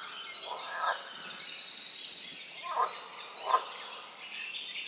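Several songbirds of a wetland forest singing over one another in quick high notes and trills. Repeated lower, rasping calls come in about a second in and again around three seconds in.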